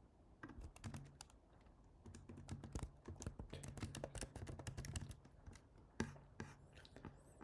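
Typing on a computer keyboard: rapid, irregular key clicks, a brief flurry, a short pause, then a longer run of typing with a few last keystrokes near the end.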